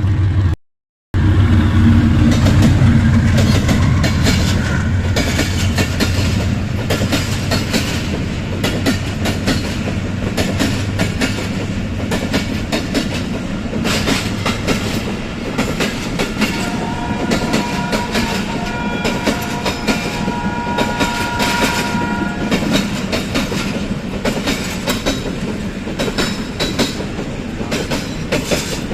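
Passenger train passing close by, its wheels clattering rapidly over the rail joints. A low drone runs through the first half, and a few steady high tones hold for several seconds in the middle.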